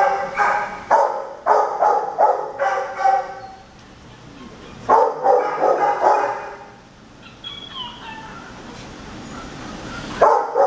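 Shelter dogs barking in kennels: a quick run of barks over the first three seconds, another cluster about five seconds in, and a brief high falling whine a couple of seconds later.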